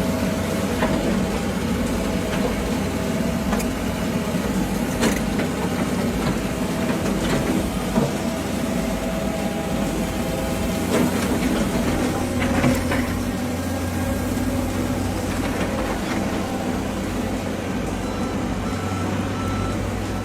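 Heavy diesel machinery engine running steadily, with a few short knocks and clanks.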